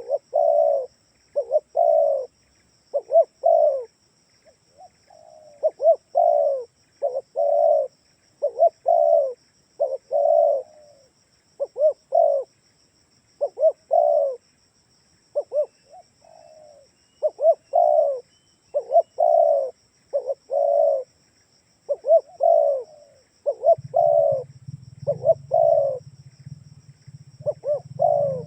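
Spotted dove (tekukur) cooing over and over in repeated phrases of short coo notes, used as a luring call. A low hum joins in during the last five seconds.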